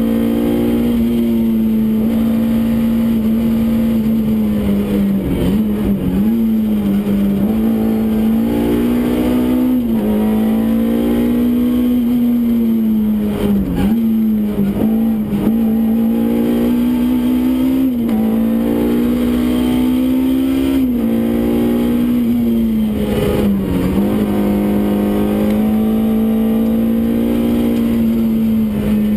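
VW Polo rally car's engine heard from inside the cabin, driven hard along a stage. The revs stay high and mostly steady, with brief dips about half a dozen times as the driver shifts gear or lifts off.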